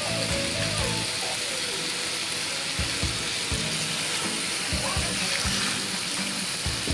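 Cubed potatoes sizzling steadily as they fry in oil in a wok while being stirred, over background music.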